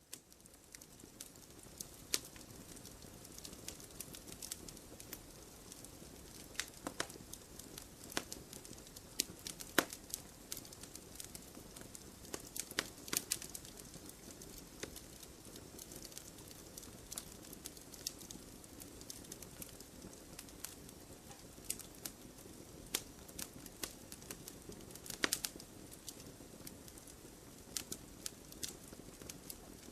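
Wood fire burning in a fireplace: a steady soft hiss and rumble of flames with irregular sharp crackles and pops, a few of them louder.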